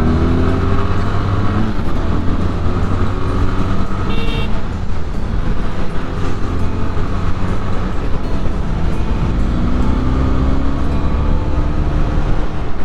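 Benelli 502C parallel-twin motorcycle engine running under way, its pitch rising and falling as the throttle changes. A short horn toot sounds about four seconds in.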